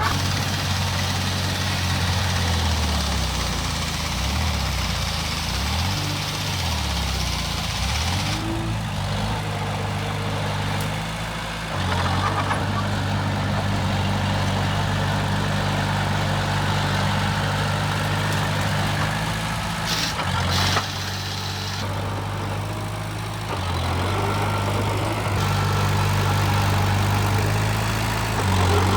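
Heavy diesel engine of construction machinery running. Its pitch rises and falls over the first several seconds, then holds steadier, with two short sharp sounds about twenty seconds in.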